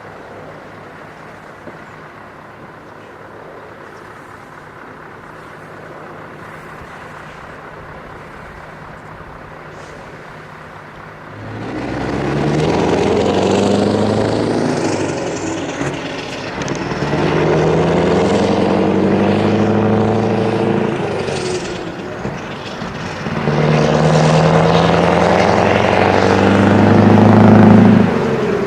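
Scania 164G 480's 16-litre V8 diesel with an open straight pipe, idling steadily and then pulling away about twelve seconds in. It revs up through the gears in three rising sweeps, each dropping off at a gear change, and the last pull is the loudest.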